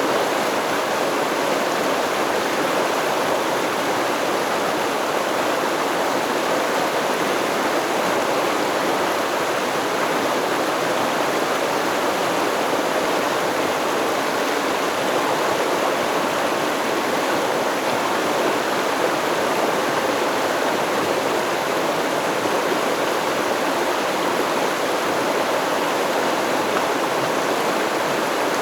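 Stream water flowing steadily, a constant even rush of running water with no birds or music.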